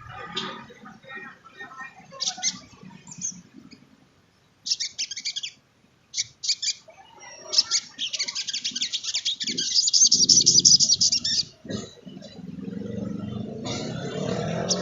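Sunbird (sogon) song: short, high, rapid trilling phrases, then a long fast chattering trill in the middle.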